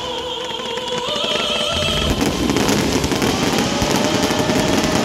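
Fireworks display: a dense run of rapid pops and crackles that thickens about two seconds in.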